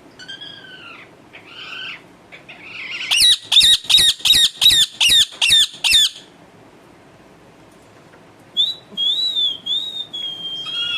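Pet parrot squawking: a few calls, then a quick run of about eight loud harsh screeches, roughly three a second, followed after a pause by a wavering whistled call near the end. Screeching rather than talking, though it is being coaxed to speak.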